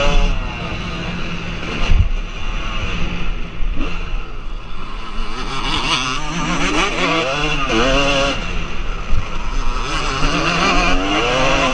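Motocross bike engines revving up and down, their pitch repeatedly rising and falling as they are ridden on the track.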